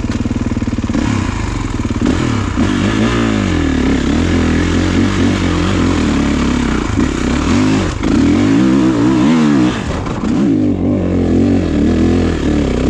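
Kawasaki KX450 four-stroke single-cylinder motocross engine under load on a short wet hill climb in second gear, revs rising and falling over and over as the clutch is feathered, with a brief drop in revs near the end before it pulls again.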